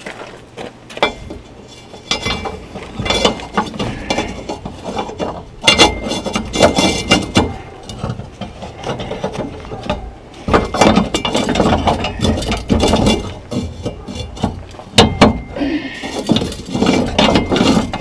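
Rebar pieces clinking, knocking and scraping against one another as the legs are slid onto a bent rebar loop, in irregular clusters of metal-on-metal rattles with short pauses between.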